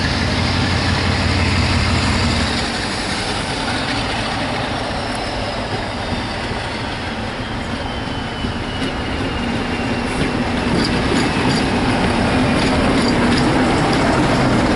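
Diesel locomotive working past with its engine drumming low, a thin whine falling in pitch, then coaches rolling by with a run of wheel clicks over the rail joints.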